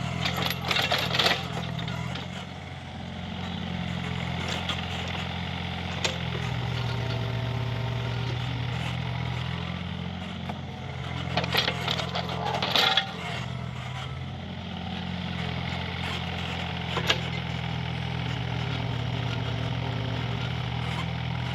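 Mini excavator's diesel engine running steadily while it digs, with bursts of metallic clanking and scraping about a second in and again around eleven to thirteen seconds.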